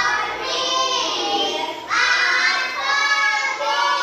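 Young children singing in high voices, in long held notes that change about once a second.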